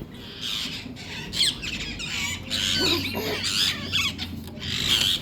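Pet parrots squawking: a string of short, harsh calls that bend up and down in pitch.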